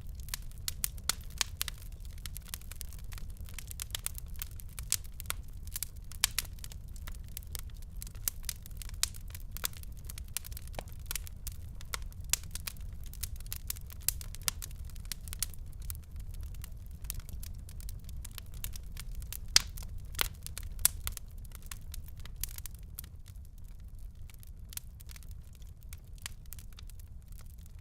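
Wood fire in a fireplace crackling, with many sharp pops and snaps over a steady low rumble of the flames. Two louder pops come past the middle, and the crackling thins out near the end.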